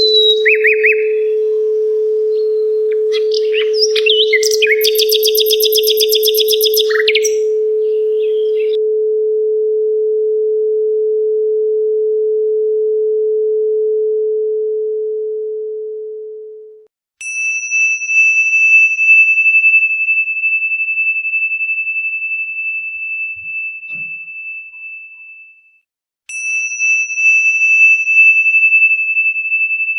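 A steady 432 Hz pure tone, with birds chirping over it for the first eight seconds or so; the tone fades out about 15 seconds in. Then a high ringing tone starts suddenly and slowly dies away, and starts again near the end.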